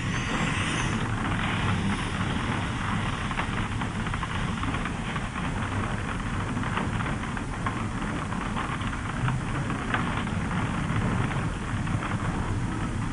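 Heavy rain pelting a moving car's roof and windscreen, heard from inside the cabin as a dense patter over the steady low rumble of the engine and road.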